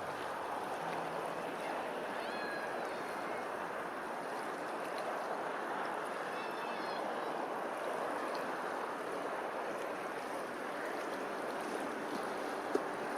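Steady rush of flowing water, with a few faint, short high chirps about two and a half and six and a half seconds in.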